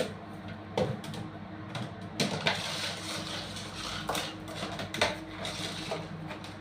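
Irregular light taps and clicks, about half a dozen spread out, from a pet bird pecking and scrabbling at a person's feet on a hard floor.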